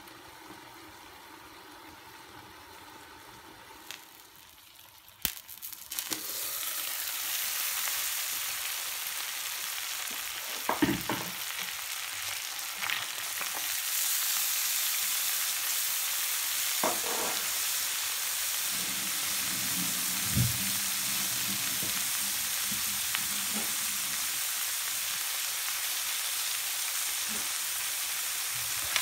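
Mussels and mixed vegetables sizzling in a frying pan. It starts as a quieter covered hiss, then a clatter about five seconds in as the lid comes off, after which the sizzle jumps up loud and steady. There are a few short knocks in the pan along the way.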